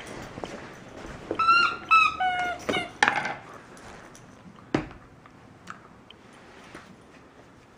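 Dog whining: three short high-pitched squeals in quick succession about a second and a half in. A click follows, then a single knock about five seconds in.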